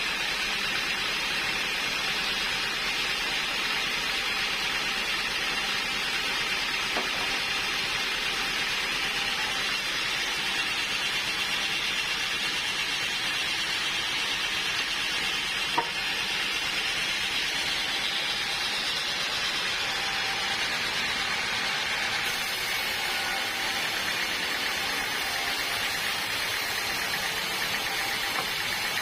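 Sawmill machinery running with a steady, even noise, and one short sharp click about halfway through.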